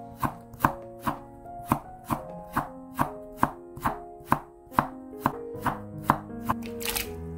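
Kitchen knife slicing burdock root into thin diagonal pieces on a wooden cutting board: an even run of sharp knocks, a little over two a second, as each cut goes through the root onto the board.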